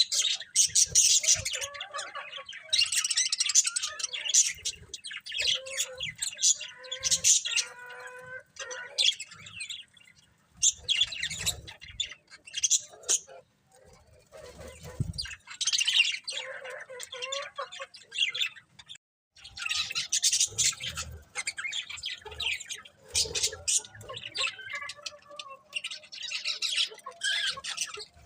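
Pet budgerigars chirping and chattering in bursts of high-pitched calls with short pauses between, and now and then a few lower warbled notes.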